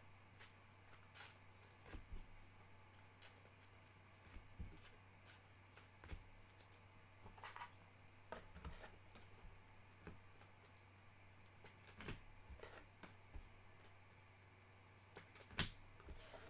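Faint, scattered clicks and soft rustles of trading cards and packs being handled on a table, with one sharper click near the end, over a steady low electrical hum.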